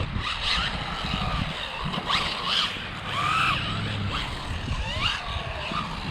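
Electric motor of a 1/12-scale RC buggy whining up and down in pitch several times as the throttle is punched and released, over a rough low rumble of the car running on the ground.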